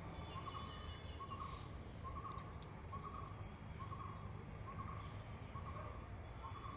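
A bird repeating a short call about once a second over a steady low background rumble, with a few faint higher chirps from other birds.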